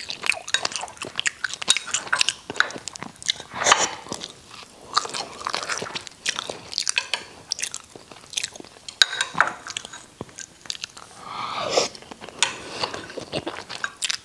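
Close-up chewing and mouth sounds of a person eating steamed rice and braised catfish, with frequent irregular sharp clicks and smacks.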